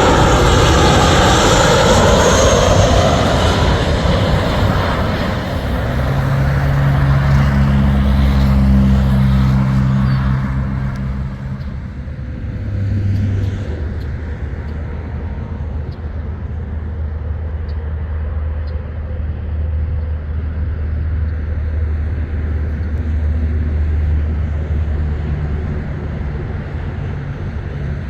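Jet airliner passing close by, its loud engine noise sweeping with a phasing sound at first, then fading over about ten seconds into a low steady rumble.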